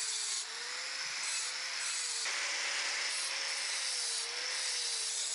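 Bosch GWS9-115P 115 mm angle grinder running with its disc working stone: a steady motor whine that wavers slightly in pitch as the load changes, over a gritty grinding hiss. The pitch steps up abruptly a bit over two seconds in.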